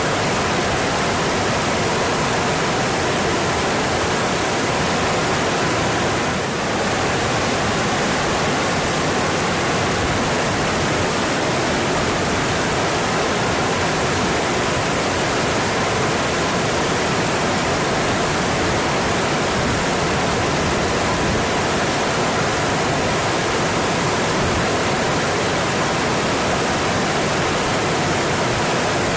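Mountain stream running with a steady, even rush of water, dipping slightly for a moment about six seconds in.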